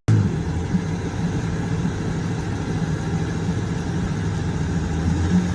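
Motor vehicle engine running steadily at a low, even pitch.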